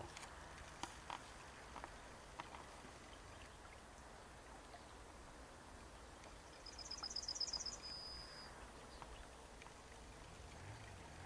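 Faint riverside ambience with a low steady rumble and a few small clicks in the first seconds; about seven seconds in, a small bird sings one short, high, rapid trill ending in a brief held note.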